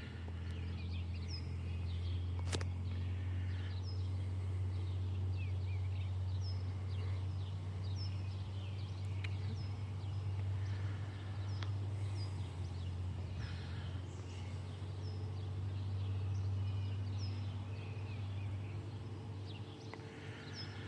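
Songbirds chirping over and over in short, high, hooked notes about once a second, over a steady low hum.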